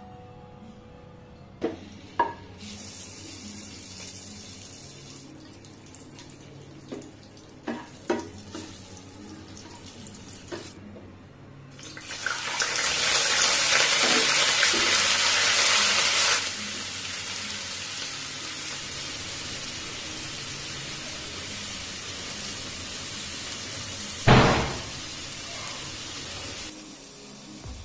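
A few light knocks, then hot oil in a wok sizzling loudly as ginger-garlic paste goes in, settling to a steady fry. Near the end there is a thump and a fresh burst of sizzling as chopped onions are tipped into the oil.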